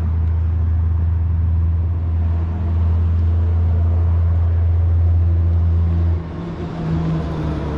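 A car engine running steadily with a low rumble, which cuts off abruptly about six seconds in.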